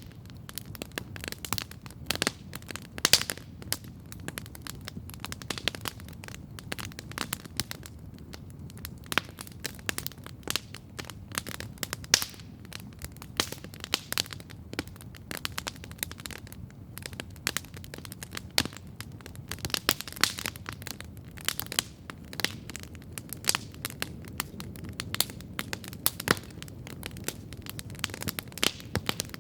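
Wood campfire crackling steadily, with frequent sharp, irregular pops over a low, steady background rumble.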